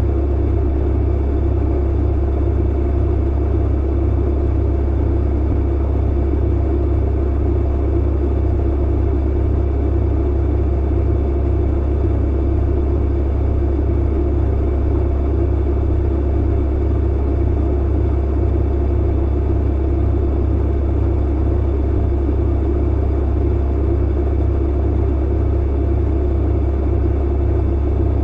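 Clothes dryer running: a steady, unbroken low rumble with an even hum and no separate thumps or clicks.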